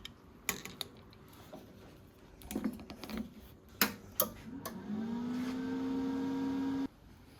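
Sharp clicks and knocks of metal tools being handled. About five seconds in, a small motor starts, rises briefly in pitch, runs at a steady hum for about two seconds, then cuts off abruptly.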